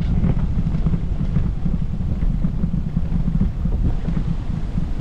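Steady low rumble of outdoor background noise, almost all of it in the deep bass, with a few faint light ticks above it.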